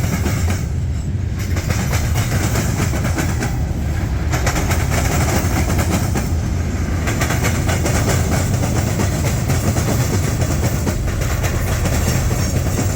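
Freight train rolling past, its steel wheels clattering over the rails with a steady heavy rumble.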